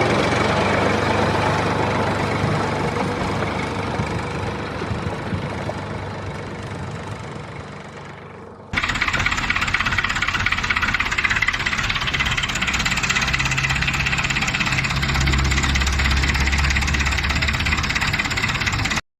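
A motor running with a steady rattle that slowly fades; about nine seconds in, a different, louder rattling motor sound cuts in abruptly, runs steadily, and stops suddenly near the end.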